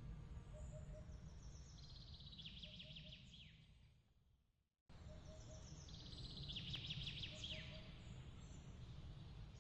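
Looped night-time nature ambience: a steady low rumble with high, quick chirping trills and a faint repeating three-note call. It fades out to silence a little over four seconds in, then cuts back in abruptly as the same loop starts again.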